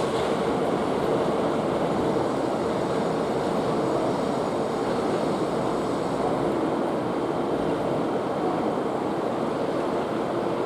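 Steady running noise of a Hankyu electric train in motion, an even rushing sound with a faint steady hum.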